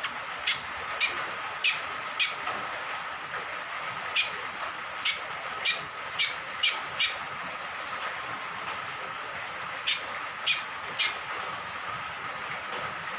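Scaly-crowned honeyeater (cucak kombok) giving short, sharp, high call notes, about thirteen in three loose bursts, over a steady hiss of falling rain water.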